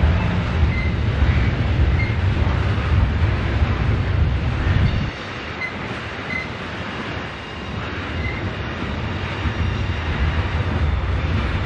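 A diesel-hauled train passing with a heavy, low engine rumble that drops away about five seconds in and builds back up near the end. Short, high wheel squeals come now and then over the running noise of the cars.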